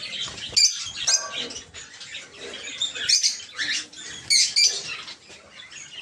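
Several caged pet birds chirping, in clusters of short high-pitched calls every second or so, with the loudest clusters around three and four and a half seconds in.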